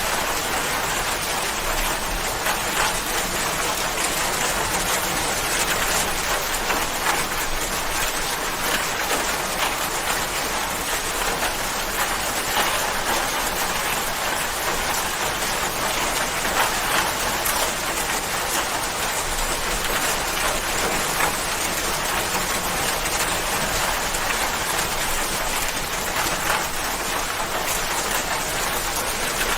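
Steady heavy rain falling, a dense even hiss with many close drop patters.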